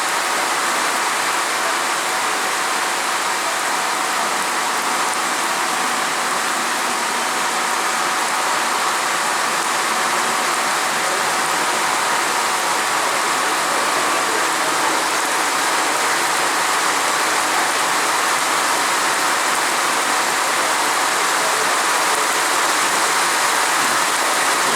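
Heavy monsoon rain falling steadily, an even, unchanging hiss.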